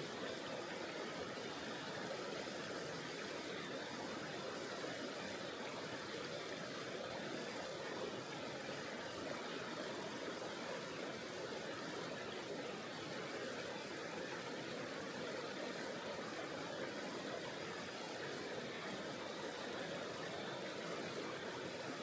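Tonghou River, a mountain river, rushing steadily: an even wash of flowing water with no separate splashes or breaks.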